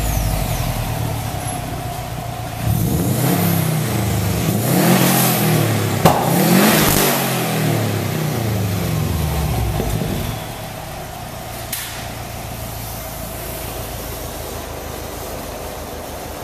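2008 Subaru WRX's turbocharged flat-four running through an Invidia Q300 stainless steel exhaust and bell-mouth divorced-wastegate downpipe, just after start-up. It is revved up and down about three times from about three seconds in, then drops back to a steady, lower idle around ten seconds in.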